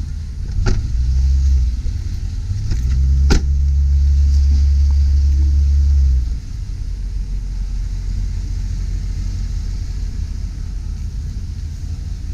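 2005 Chevy Silverado 2500 HD's engine idling with a steady low rumble. Two sharp knocks, about a second in and just over three seconds in; the rumble is louder after the second knock and drops suddenly about six seconds in.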